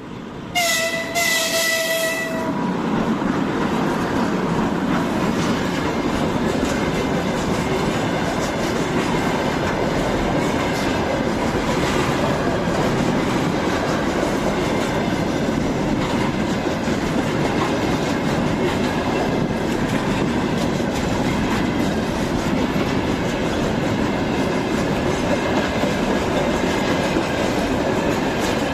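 A locomotive horn sounds once for about two seconds right at the start. Then a freight train rolls past in a steady rumble, its wagon wheels clattering over the rail joints.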